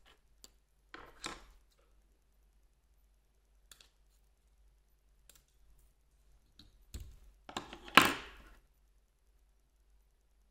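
Hands handling small craft pieces of wire and yarn: scattered light clicks and short rustles, the loudest rustle about eight seconds in.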